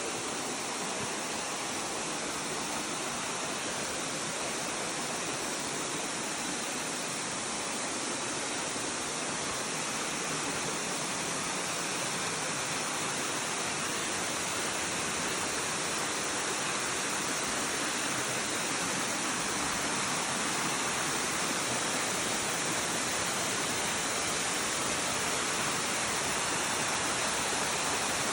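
Rushing water, a waterfall or fast stream, making a steady, even rush that slowly grows louder.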